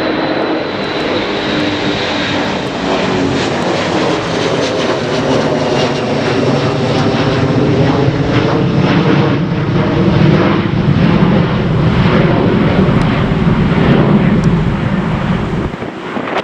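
Airliner engines at high power passing close by, loud and building over the seconds, with the engine tones sliding slowly downward as it goes by. The sound cuts off abruptly at the very end.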